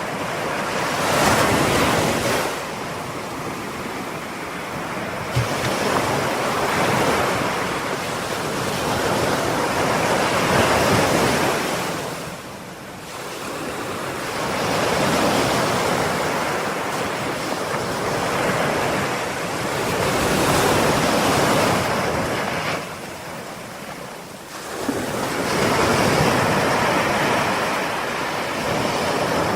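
Ocean surf: waves breaking and washing in, the rush swelling and easing every few seconds with brief lulls between surges.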